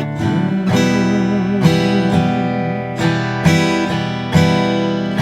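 Acoustic guitar strumming two bars of an E minor chord in a steady accompaniment pattern.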